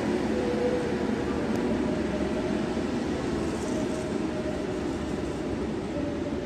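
Electric multiple-unit passenger train running away along the station tracks: a steady rumble with a faint motor whine, slowly easing off.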